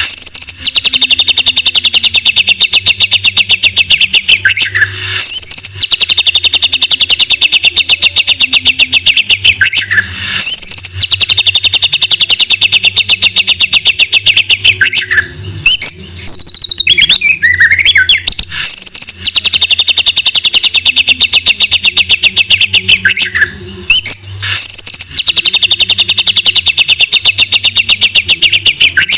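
White-rumped shama (murai batu) singing. It gives long runs of rapid, evenly repeated notes, about five of them, each lasting several seconds. Short whistled notes and glides come between the runs.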